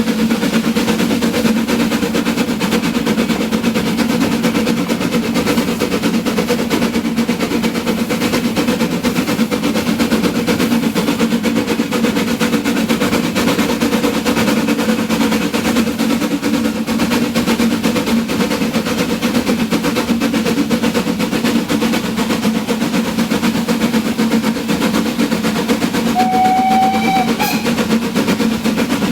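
Narrow-gauge steam train running with a steady, rapid clatter. A brief high tone sounds near the end.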